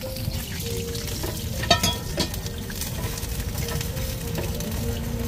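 Crispy shellfish pancake batter frying in hot oil in a shallow pan, sizzling steadily. A metal spatula clicks and scrapes against the pan a few times about two seconds in.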